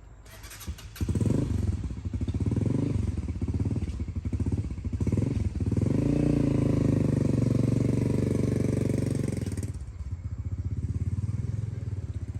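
A vehicle engine starting off about a second in, revving up and down several times, then held at a steady higher pitch before easing to a lower, quieter run near the end.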